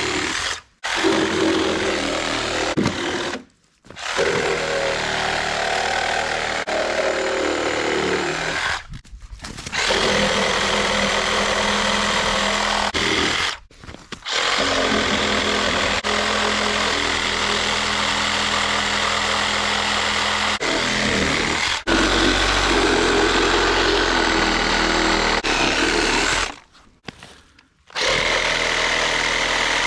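Cordless battery chainsaw cutting through a log for firewood, running in several long stretches with short, sudden stops between them.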